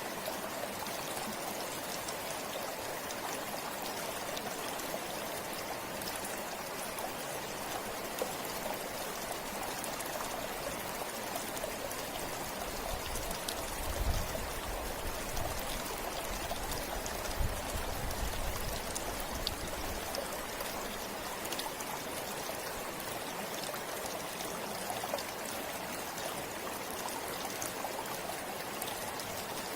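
A forest river flowing steadily, its water noise even and unbroken, with a few faint drips and splashes. Twice about halfway through, short low thuds rise briefly above the flow.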